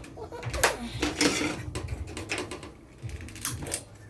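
Gas stove burner being lit: a run of irregular mechanical clicks and knocks from the knob and igniter.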